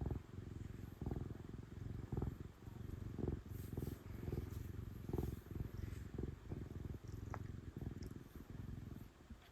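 Domestic cat purring loudly while being stroked. The purr swells with each breath about once a second, with faint rustles of the hand on its fur.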